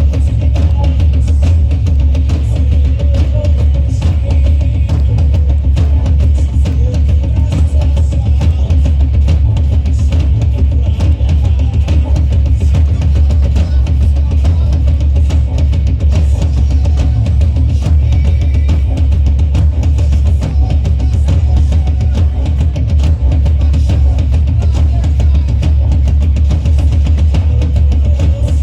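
Loud instrumental band music with drum kit and guitar over a heavy, continuous bass, played without a break.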